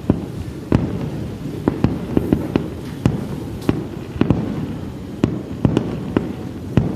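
Aerial firework shells bursting in quick, irregular succession, about two sharp bangs a second over a continuous low rumble of echoing blasts.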